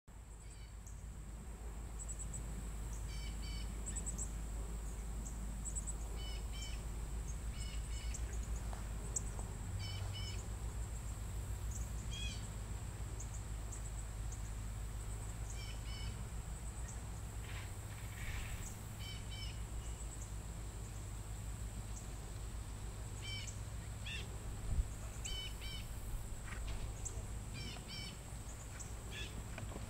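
Outdoor ambience: a steady low rumble with short bird chirps repeating every second or two over a steady high-pitched whine. A single dull thump sounds once, late on.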